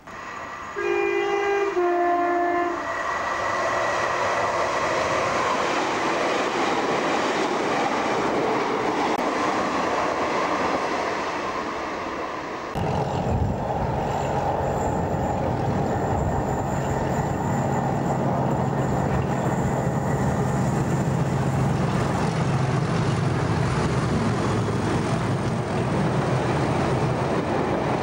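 A diesel passenger train sounds a two-tone horn about a second in, a higher note then a lower one, and runs past with a loud rushing rumble. After a sudden change about halfway through, a diesel train passes close by with a steady low engine drone and wheel noise.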